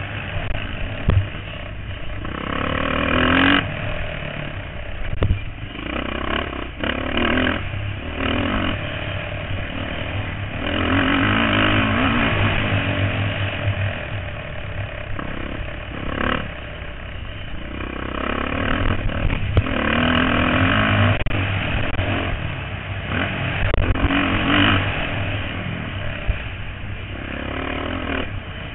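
Motocross bike engines racing, the sound rising and falling repeatedly as the bikes rev and pass.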